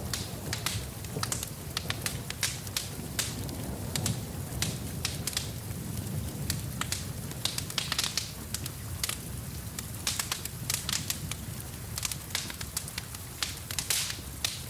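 Wood fire crackling, with irregular sharp pops and snaps over a low steady rumble of flames, and a steady rain hiss underneath.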